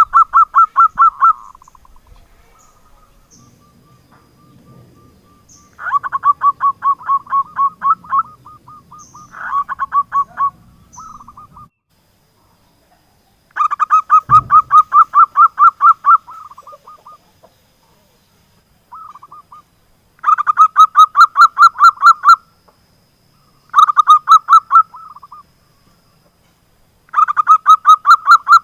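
Zebra dove (perkutut) cooing: repeated bouts of rapid, evenly pulsed notes, each bout lasting one to three seconds, separated by short pauses.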